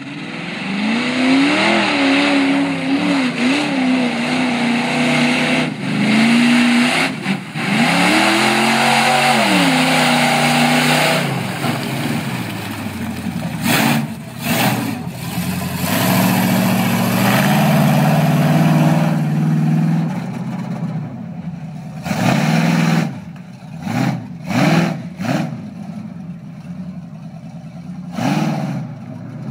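Top-truck off-road racing truck engine revving hard under load, its pitch rising and falling through the first half, then held high. In the last third it comes in short separate revs with drops between them.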